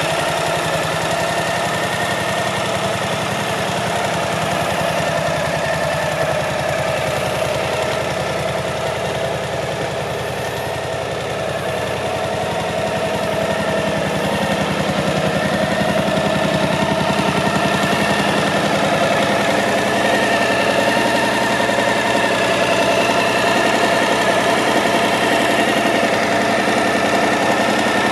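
Suzuki DL1050 V-Strom's V-twin engine idling steadily.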